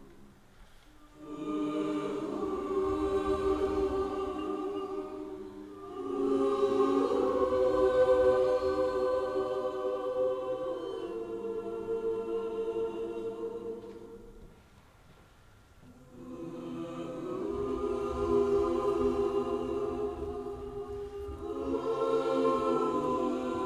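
Several voices singing sustained chords together in long, swelling phrases, with a short lull about a second in and a longer pause around fifteen seconds in.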